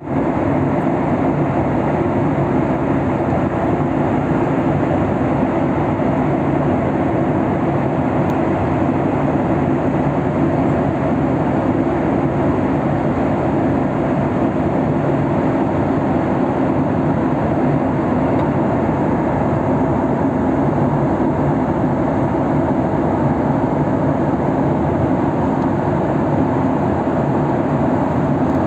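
Steady drone of an airliner cabin in flight: engine and airflow noise heard from inside the plane, unchanging throughout.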